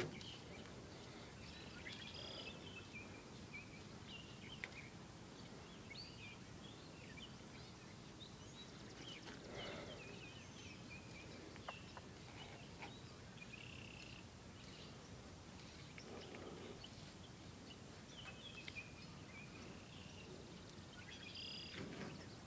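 Small birds chirping and calling in short, repeated notes over a faint, steady outdoor background hiss.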